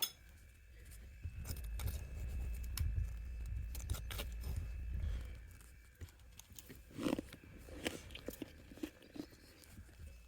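Mouth biting and chewing freezer frost at close range: muffled low chewing for a few seconds, then scattered sharp crunches and crackles, the loudest about seven seconds in.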